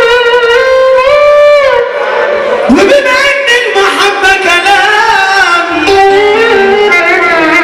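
Egyptian sha'bi wedding music, loud: a single ornamented melody line of held notes with slides and turns, in a reedy, nasal timbre.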